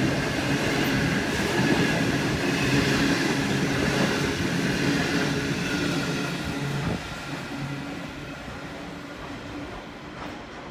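Grain hopper wagons rolling past on steel rails. The sound drops sharply about seven seconds in as the last wagon goes by, then fades as the train draws away.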